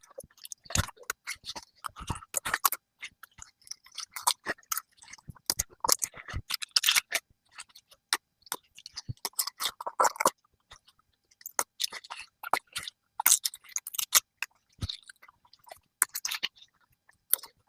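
Crisp collard green leaves being harvested off the plants and handled: irregular crunching, snapping and rustling in short bursts with brief pauses between them.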